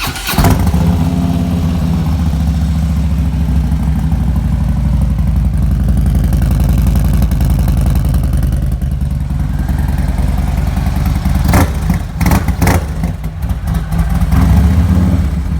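Harley-Davidson Street Glide's 103 cubic-inch V-twin with a Vance & Hines 2-into-1 exhaust firing up right at the start and settling into a steady, loud idle. A few sharp clicks come about twelve seconds in.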